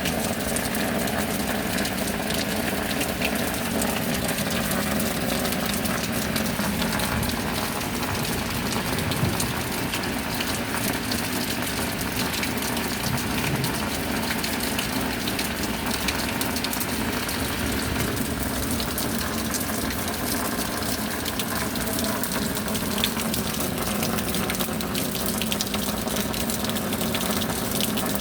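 Steady rain: a dense patter of drops over an even rush of falling water.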